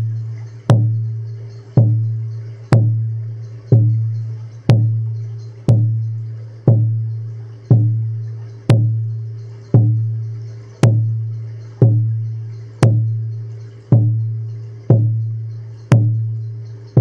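A low drum struck in a slow, even beat, about once a second. Each stroke rings on with a deep tone that fades before the next.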